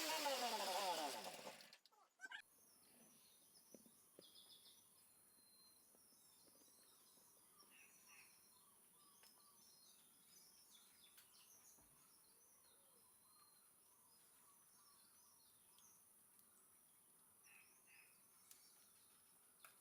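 A motorcycle engine revving, its pitch rising and falling, cuts off suddenly about two seconds in. Faint outdoor quiet follows, with scattered bird chirps and a steady high insect hum.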